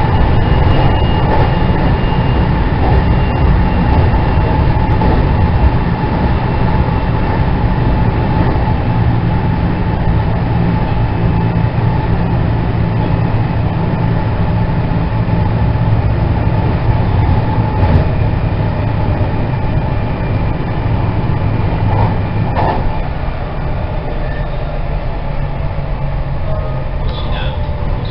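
Running sound inside the motor car of a 207 series 2000-subseries electric train: a steady rumble from the wheels and track, under the whine of the IGBT VVVF inverter-driven traction motors. Now and then a sharp click comes from the rails. Near the end a tone starts to fall in pitch.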